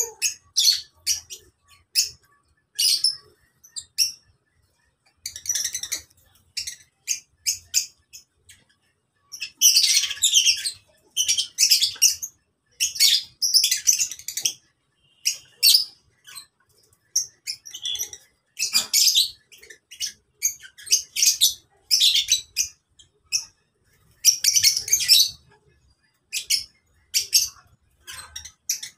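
A flock of lovebirds chattering: many short, shrill chirps in quick succession, thickening into dense bursts of chatter several times.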